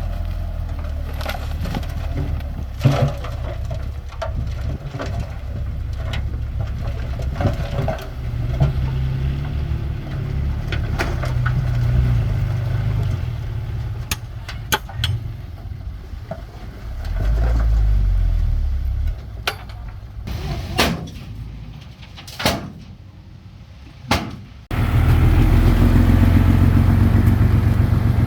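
Bulldozer's diesel engine running under load, with scattered sharp clanks and knocks. It becomes suddenly louder and steadier about three seconds before the end.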